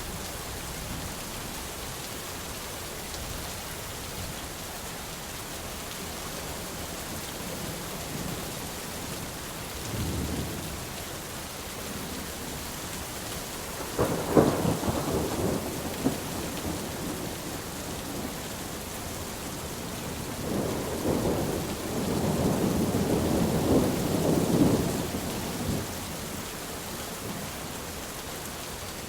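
Steady rain with thunder: a faint distant rumble, then a sudden loud clap about halfway through that rumbles off over a couple of seconds, and a longer rolling peal of thunder lasting several seconds near the end.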